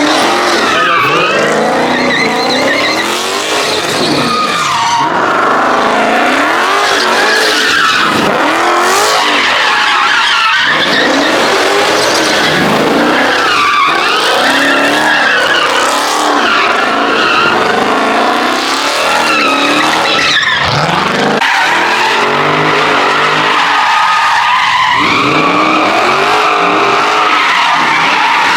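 Car engines revving hard, their pitch sweeping up and down over and over, with tyres squealing and skidding on pavement.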